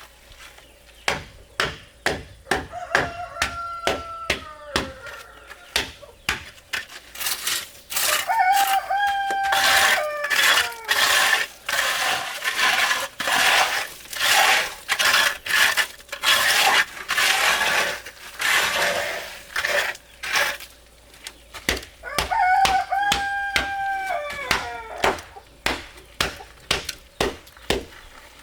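A rooster crows three times, each call holding its pitch and then falling away. Underneath runs a steady series of sharp knocks, about one or two a second, with a louder rough, crunching noise through the middle.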